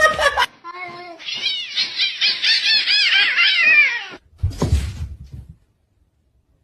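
A cat giving a rapid run of short, high meows, each rising and falling, for about three seconds. Then comes a brief low thud and a second of dead silence.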